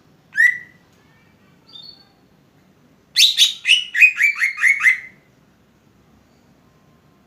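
Cucak ijo (greater green leafbird) singing: a sharp downward-sweeping note about half a second in and a faint call soon after, then a quick run of about eight falling notes lasting about two seconds.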